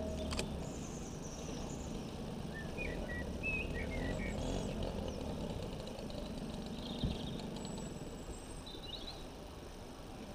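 Small songbirds chirping in short, quick phrases over a steady low outdoor rumble.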